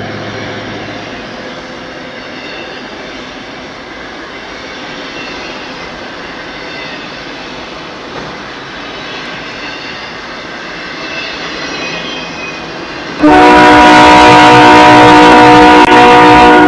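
A steady rushing noise, then about 13 seconds in a locomotive's multi-chime air horn sounds loud and close, holding one chord for about three and a half seconds before cutting off sharply.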